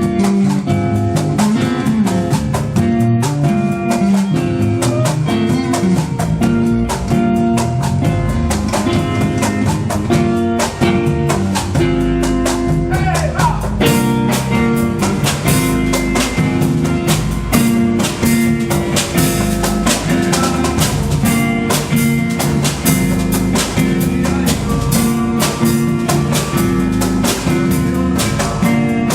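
Instrumental band music: guitar over a moving low line and a drum kit keeping a steady beat.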